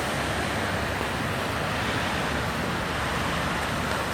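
Steady rushing noise of heavy rain and water running over the road, with vehicle tyres swishing through the floodwater.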